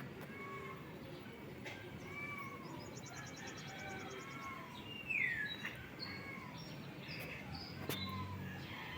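Birds chirping with short whistled calls throughout: a rapid high trill for about a second and a half a few seconds in, and a downward-sweeping call about five seconds in.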